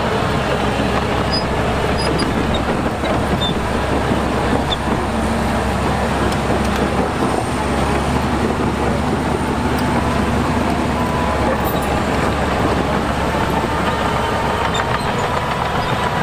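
Heavy diesel earthmoving machinery running steadily: a constant engine drone with a deep rumble.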